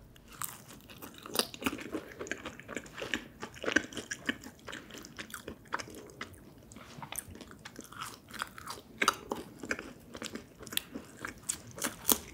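Close-up biting and chewing of a slice of Domino's cheese crepe sand pizza, whose crust is two layers of dough pressed together: irregular crisp crunches with wet mouth sounds, some louder crunches around four seconds in and again around nine seconds in.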